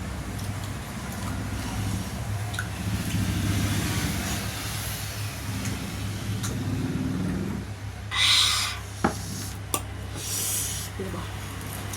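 Eating sounds, with mouth noises over a steady low hum. About eight seconds in comes a short hissy noise, then two sharp clicks and another brief hiss.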